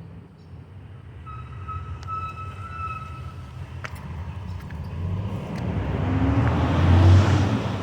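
A passing vehicle, its rumble growing steadily louder to a peak near the end as it comes close. A thin steady whistle sounds for about two seconds, starting about a second in.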